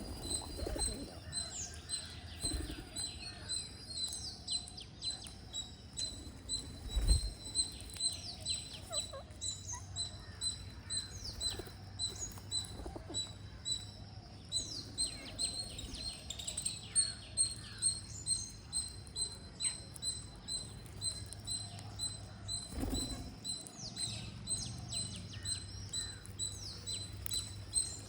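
Green parrots chirping: many short, high, falling calls coming in quick clusters, over a steady high tone that pulses about twice a second. A dull thump about seven seconds in is the loudest sound, with a second thump near the end.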